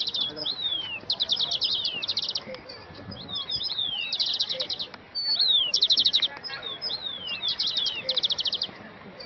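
Birds singing: fast trills of short, high chirps alternate with clear whistles that slide downward, the phrases repeating every second or two.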